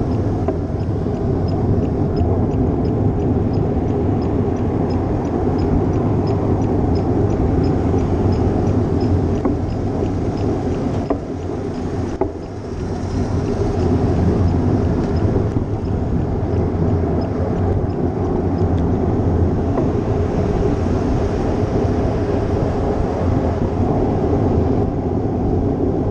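Wind rushing over the mic of a GoPro on a moving bicycle, mixed with tyre and road noise. It is loud and steady, eases briefly about halfway through, and has a run of faint high ticks in roughly the first ten seconds.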